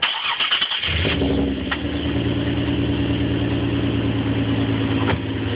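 Nissan Z's engine cranked by the starter and catching about a second in, then settling into a steady idle.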